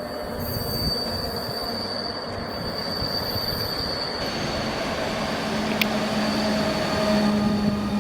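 Passenger train moving through a railway station, its wheels running on the rails with a high, steady squeal that stops about four seconds in. A sharp click comes near six seconds, and a lower steady hum grows toward the end.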